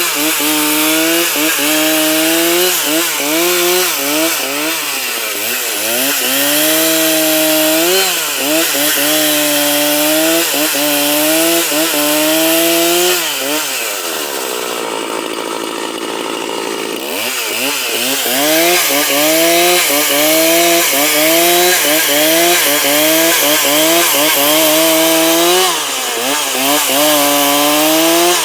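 Two-stroke chainsaw cutting wood to saw boards from a log, its engine pitch dipping and recovering about once a second as the chain loads in the cut. About halfway through, the revs sink and drop away for a few seconds, then rise back into the cut.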